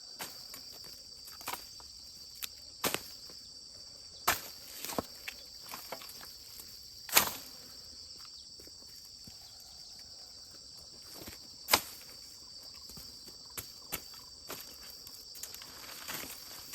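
Steady high-pitched insect drone, with scattered sharp clicks and knocks over it, the loudest about 7 and 12 seconds in.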